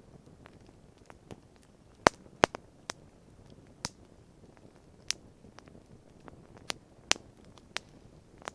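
Wood campfire crackling, with irregular sharp pops, the two loudest close together about two seconds in, over a faint steady hiss.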